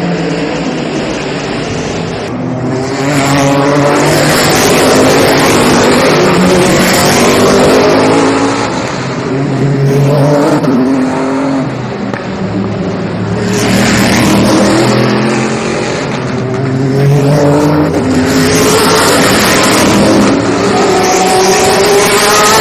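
Sports-car racing cars passing one after another, engines rising in pitch as they accelerate through the gears, in several loud swells as cars go by.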